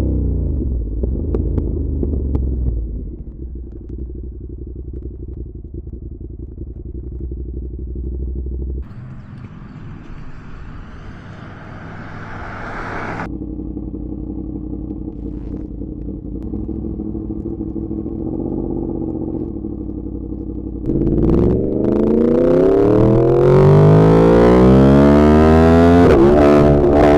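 Sport motorcycle engine running under way, a steady low engine note with a couple of abrupt shifts in tone. In the last few seconds it gets louder and the revs climb repeatedly as it accelerates through the gears.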